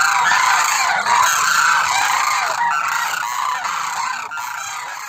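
A flock of demoiselle cranes calling, many short overlapping calls at once, fading out over the last couple of seconds.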